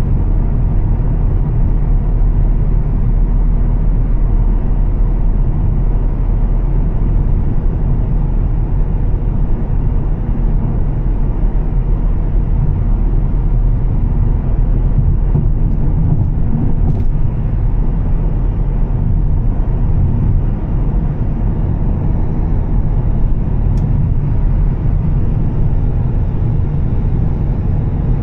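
Volvo S60 T6's turbocharged inline-six with a Heico aftermarket exhaust, running steadily at cruise together with road noise, heard as an even low drone.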